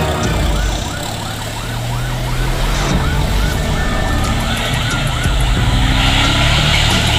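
Fire truck siren sounding a fast yelp, rising and falling about three times a second, over the low steady running of the truck's engine.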